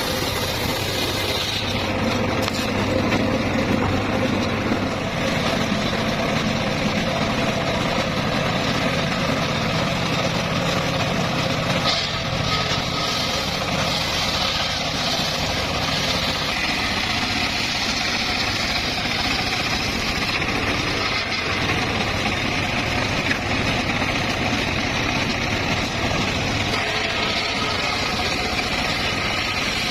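Engine of a homemade circular sawmill running steadily.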